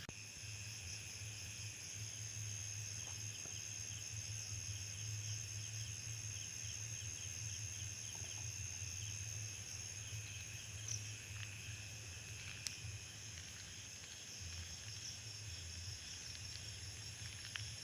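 Crickets and other insects chirring steadily in a high-pitched chorus, with rapid pulsing chirps over a continuous trill and a low hum underneath.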